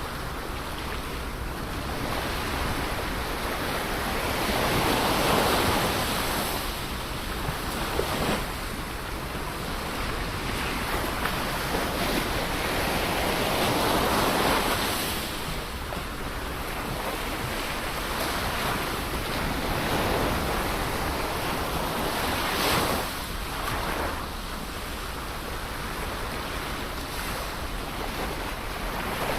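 Ocean waves breaking on a shore, the surf swelling and ebbing in slow surges about every eight or nine seconds, with some wind on the microphone.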